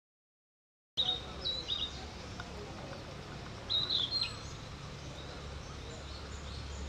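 Narcissus flycatcher singing: two short phrases of quick, clear whistled notes, one about a second in and one near the middle, over a steady low rumble.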